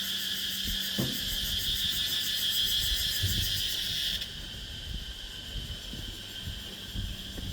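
Insects calling in a steady, high, pulsing buzz. About four seconds in, the loudest caller stops abruptly, falling silent at a person's approach, and a fainter chorus carries on. Soft low thuds of footsteps come throughout.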